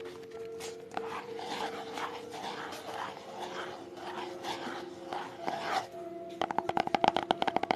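ASMR trigger sounds: soft, irregular rubbing and scratching, then rapid tapping from about six and a half seconds in, over faint background music.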